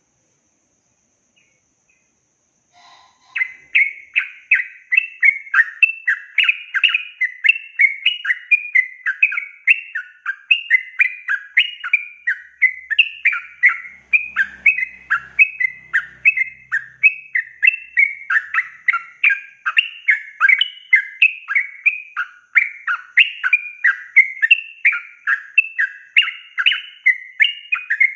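Yellow-vented bulbul (trucukan) singing a long, unbroken run of quick chattering phrases, a few notes each second, starting about three seconds in after a brief silence.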